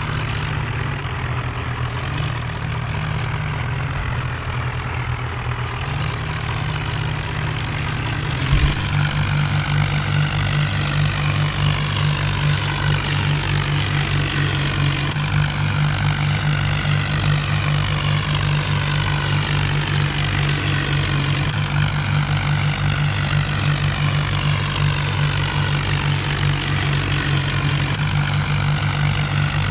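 Tractor diesel engine running steadily. About eight seconds in there is a thump, then the engine runs louder and holds that level, as when the tractors take up the strain in a tractor tug-of-war.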